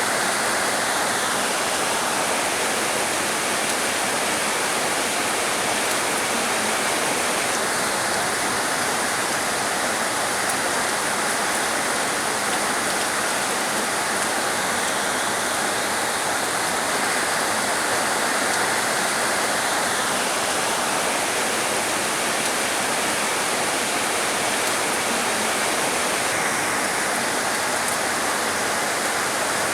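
Heavy rain falling, a steady, dense hiss of water.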